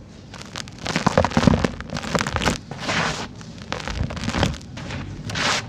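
Dry, dusty sand-cement chunks crumbling and crunching, a run of gritty crackling bursts starting about half a second in and ending with a short burst near the end.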